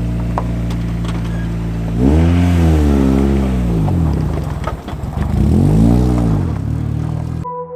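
Car engine idling steadily, then revved twice, about two seconds in and again near the end, each rev rising and falling in pitch.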